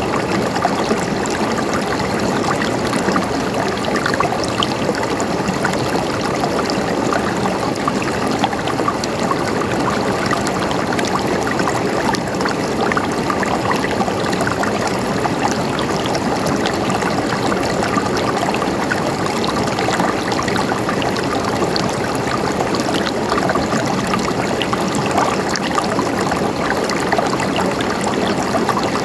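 Water flowing steadily, a continuous gurgling trickle full of small splashes, with no pauses or changes.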